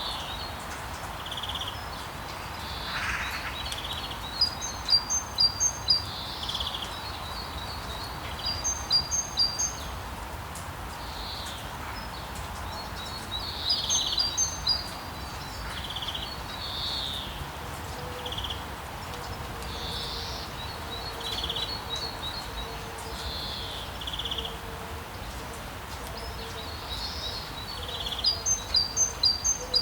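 Steady rain hiss with birds chirping over it: runs of quick, high, repeated chirps come in bursts several times, with softer single calls between.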